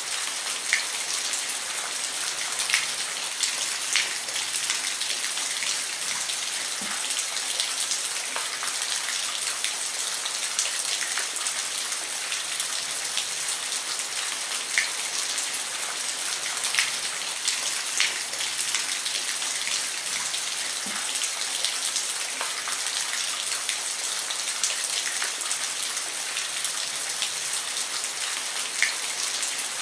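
Steady rain falling on a roof: an even hiss with scattered louder drops ticking sharply on the surface.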